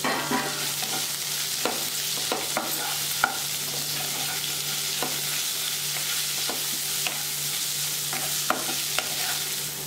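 Boiled drumstick (moringa) leaves frying in hot oil in a nonstick kadai: a steady sizzle, with a wooden spatula stirring and now and then tapping and scraping the pan in irregular clicks.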